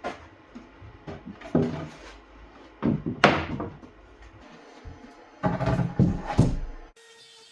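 Several clusters of knocks and thumps, as of hard objects being handled and set down. Just before the end it cuts to a steady machine whir with a held hum.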